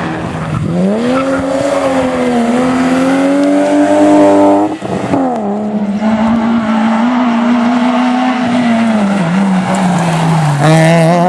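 Rally car engine at high revs under hard driving. The note dips and climbs early on, breaks sharply about halfway as if for a quick gearshift, holds steady again, dips twice near the end and then rises once more.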